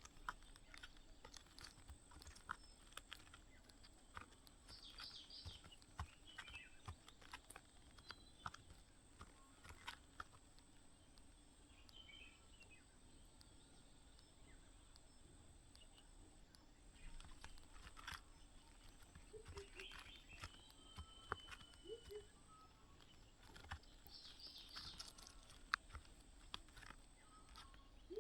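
Faint, short bird chirps a few times over quiet background hiss, with scattered small clicks and ticks between them.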